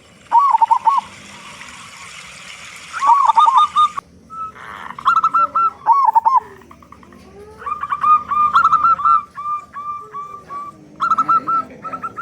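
Zebra doves (perkutut) cooing: short runs of quick, repeated hooked coo notes, several birds overlapping. A steady hiss sits under the calls for the first few seconds and stops abruptly.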